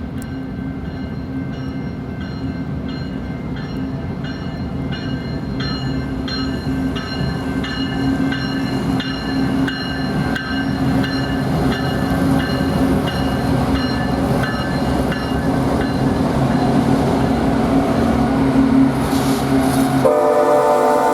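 Diesel freight locomotive approaching, its engine drone steadily growing louder, with a high dinging repeated about twice a second through the first two-thirds. About twenty seconds in, the locomotive's air horn blows a loud chord.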